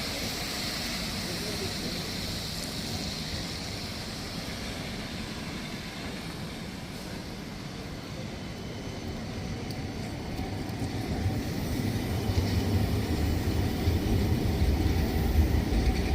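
Street noise with a heavy vehicle approaching. Its low rumble grows steadily louder over the last several seconds.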